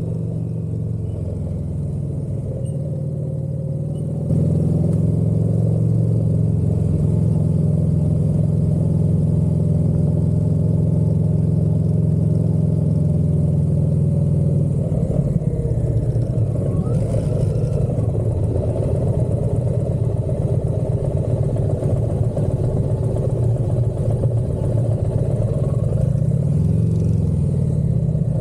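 Motorcycle engine running steadily under way, getting louder about four seconds in and sounding rougher and more uneven from about halfway through.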